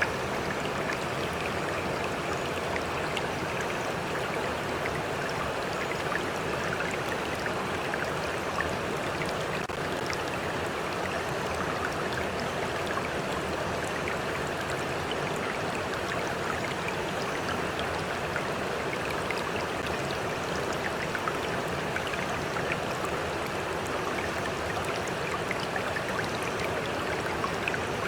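Stream flowing steadily: a continuous, even rush of water with small splashes and drips scattered through it.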